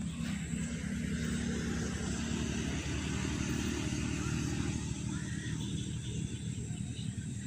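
A motor vehicle's engine running nearby, coming up about a second in and then holding steady.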